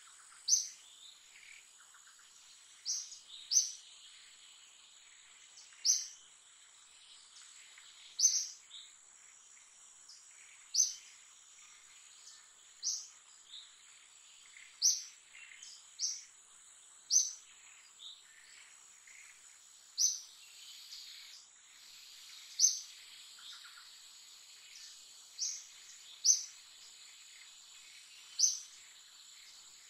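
A bird calling over and over with short, sharp, high notes, about one every one to two seconds and sometimes two in quick succession, over a steady high-pitched insect drone.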